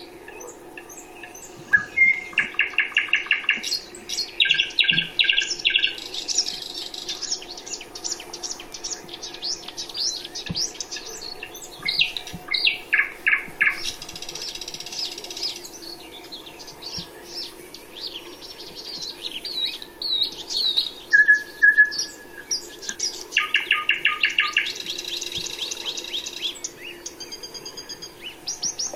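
Songbirds singing: several loud trilled phrases of rapidly repeated notes, with quick high chirps between them, over a faint steady hum.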